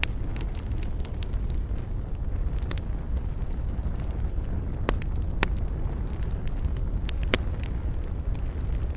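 Wood fire burning in a fireplace: a steady low rumble of flames with scattered crackles and a few sharper pops, one a little past the middle and one near the end.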